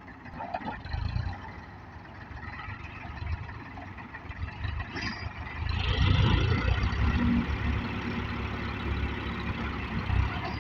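Old Ford tractor engines running, getting clearly louder about six seconds in and staying louder.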